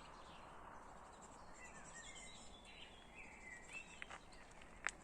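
Faint outdoor ambience with a few soft bird chirps, and a single sharp click near the end.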